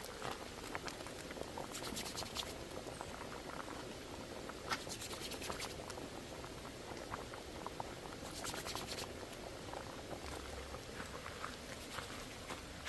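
A large pot of stew peas bubbling on the boil, with many small pops and a few short spells of denser crackling.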